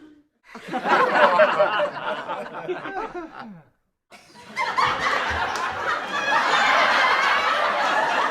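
People laughing: a burst of laughter for about three seconds, a short dead gap, then a denser stretch of several voices laughing together.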